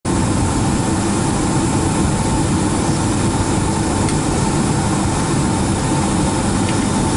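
Steady cabin noise inside a Boeing 757-200 on the ground with its jet engines idling: an even rumble and air hiss with a faint steady whine.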